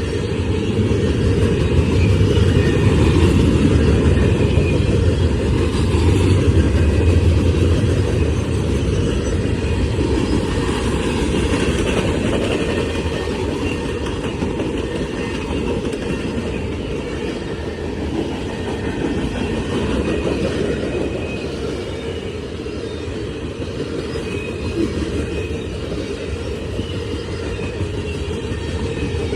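Freight cars of a CSX manifest train rolling past, a steady rumble of steel wheels on the rails.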